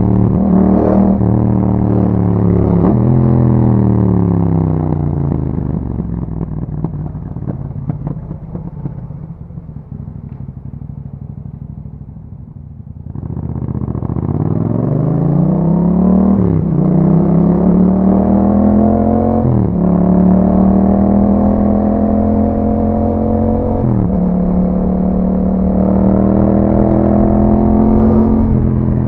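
Yamaha MT-07's parallel-twin engine through an Akrapovic exhaust, slowing down with the revs falling to a low, quieter run, then pulling away again with rising revs and several upshifts, each a quick drop in pitch.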